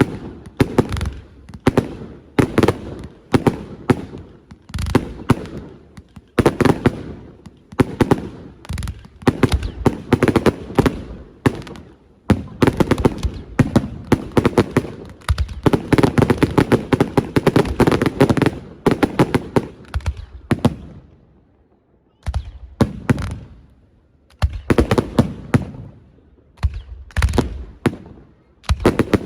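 Fireworks display: rapid volleys of shell bursts and cracks going off in quick succession. There is a short lull a little past two-thirds of the way through, then the bangs start again.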